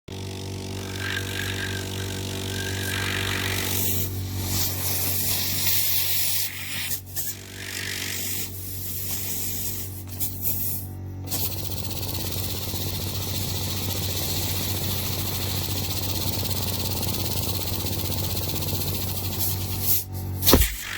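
Stuart Turner 'Simplex' model steam engine running, its steam or air supply hissing steadily over a constant low hum. The hiss breaks off briefly a few times in the first half, and a single sharp click comes near the end.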